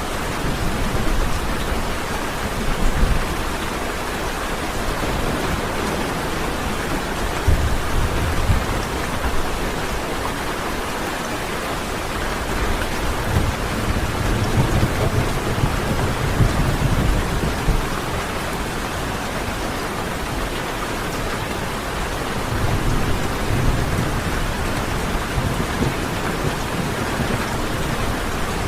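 Steady rain falling, with several low rolls of thunder swelling and fading through it, the longest near the middle.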